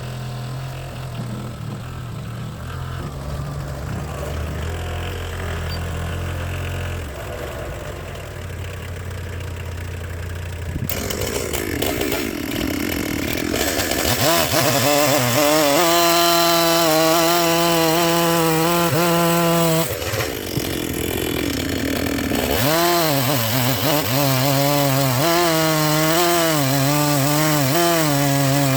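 Two-stroke chainsaw idling, then revved up about eleven seconds in and cutting through a log, its pitch wavering under load, easing off briefly and cutting again. The chain is getting dull and the log is muddy, so it throws dust rather than chips.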